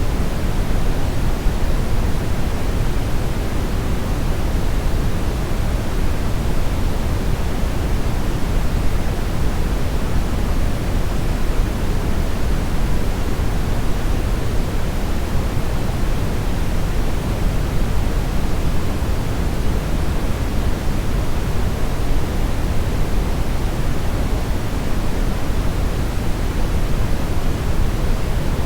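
Steady synthetic brownish noise: an even, unchanging hiss weighted toward the low end, deep and rumbling with little treble.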